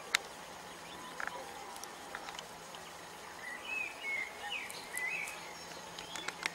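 Quiet open-air ambience with several short bird chirps in the middle, and a few light clicks scattered through, the sharpest right at the start.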